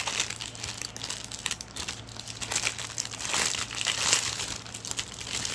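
Packaging crinkling and rustling as it is handled, a dense run of small crackles, loudest around three to four seconds in.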